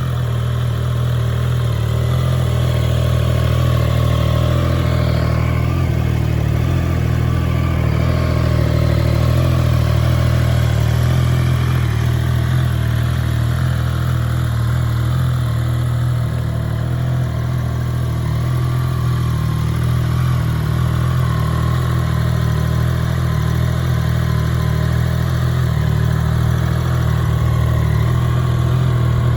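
2023 Triumph Trident 660's inline three-cylinder engine idling steadily.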